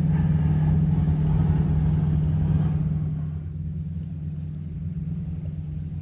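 Steady low engine drone, easing off about halfway through.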